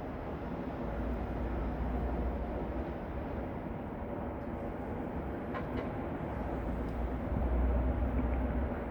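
Steady low rumble with an even hiss above it, swelling slightly about a second in and again near the end: the ambient noise being measured.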